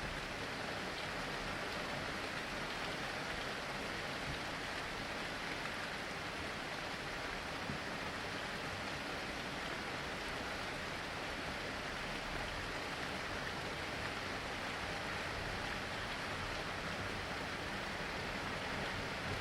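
Steady rain falling, an even hiss of drops on surfaces with no break or change.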